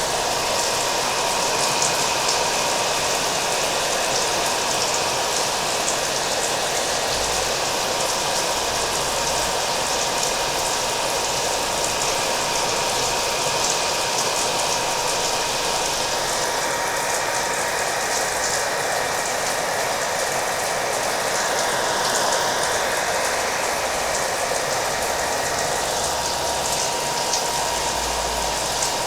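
Hair dryer running steadily, a dense hiss with a thin constant whine, mixed with the patter of falling rain.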